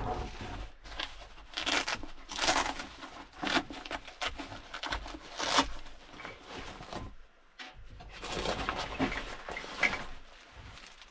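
Irregular rustling and scraping with light knocks, as of things being handled at close range in a small enclosed space.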